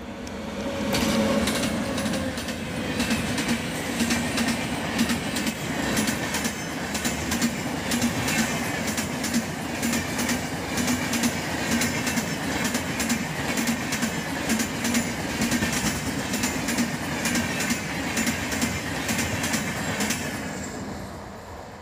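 A passenger train hauled by an Indian Railways electric locomotive passes close by at speed. The sound rises sharply about a second in, then runs on as a steady rush of wheels with rapid clickety-clack over the rail joints as the coaches go by, and fades near the end as the last coaches pass.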